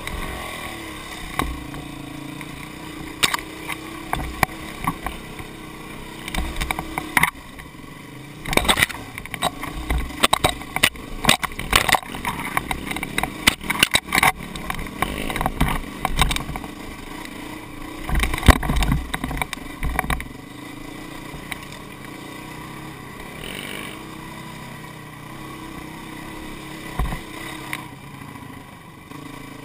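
A small engine running steadily, with clattering knocks and low wind buffeting that come thick from about a quarter of the way in to about two-thirds through, then ease off.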